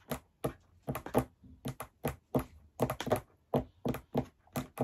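Close-up mukbang eating sounds: a person chewing French fries, with a quick irregular run of mouth clicks and smacks, about four a second.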